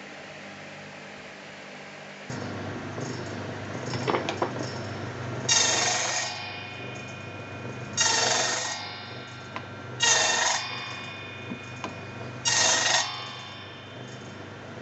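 A power tool motor, most likely the electric router, switches on suddenly a couple of seconds in and runs steadily, then four short, loud, high-pitched ringing bursts as the bit cuts into wood, about two to three seconds apart.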